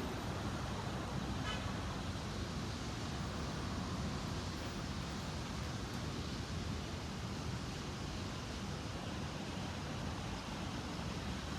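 Steady outdoor background noise, like distant road traffic, with a brief faint high-pitched sound about a second and a half in.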